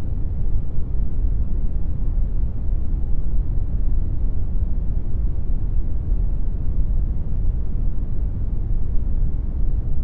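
Steady synthetic brown noise: a deep, even rumble-like hiss, heaviest in the bass and fading toward the treble, with no changes or events.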